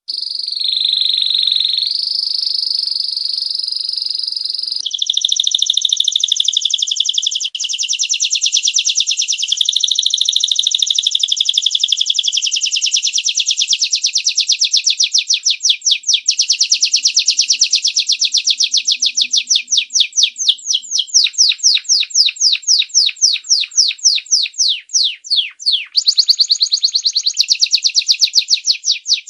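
Domestic canary singing a long, unbroken high-pitched song of rapid rolling trills. In the second half the trill slows into distinct separate notes, several a second, then runs fast again near the end.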